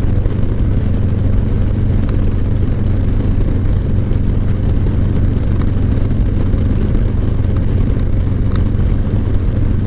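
Steady low drone of a vehicle on the move, engine and road noise, with a few faint clicks.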